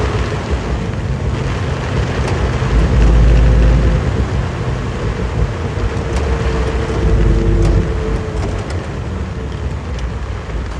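Suzuki Jimny SJ30's two-stroke three-cylinder engine running as the vehicle drives through heavy rain. A steady engine note sits over a constant wash of rain and road noise, with a louder low rumble about three seconds in.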